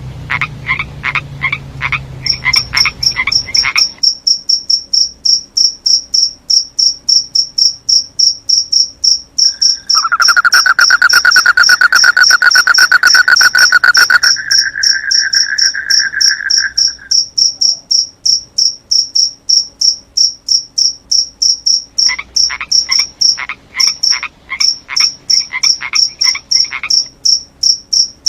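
Frogs and crickets calling: a cricket chirps steadily, a couple of times a second, throughout, while frogs give quick runs of calls near the start and again about two-thirds through. About ten seconds in, a louder, dense trill takes over for some four seconds, then carries on weaker until about seventeen seconds.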